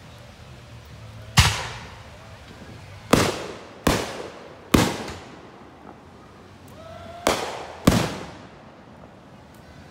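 Aerial fireworks bursting overhead: six sharp bangs, each trailing off in a short echo, irregularly spaced, with the last two close together.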